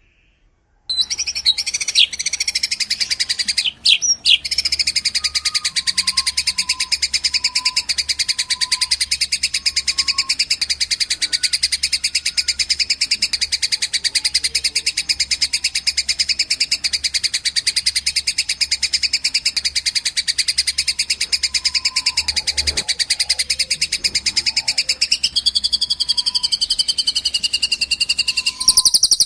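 Masteran recording of small songbirds, fighting Eurasian tree sparrow and cililin calls spliced together: a long, fast, unbroken high chattering trill that starts about a second in and switches to a different, higher song near the end.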